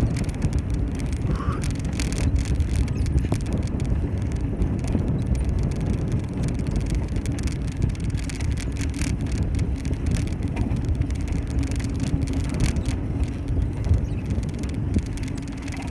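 Bicycle riding: steady low rumble of tyres and wind on the microphone, with frequent small rattles and clicks from the bike.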